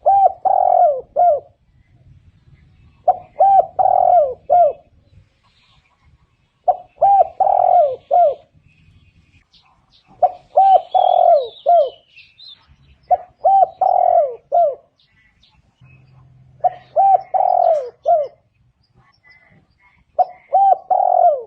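Spotted dove cooing: a phrase of four or five low coos, repeated about every three and a half seconds, seven times.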